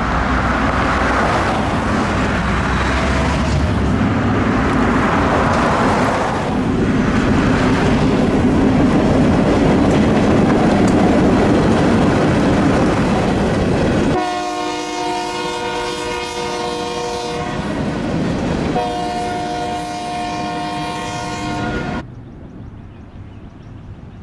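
Freight train hauled by an EMD GP9 locomotive passing close by, the engine and the cars rumbling and clattering over the rails. About fourteen seconds in, the rumble gives way to two long blasts of a locomotive horn with a short break between them. The horn cuts off suddenly near the end.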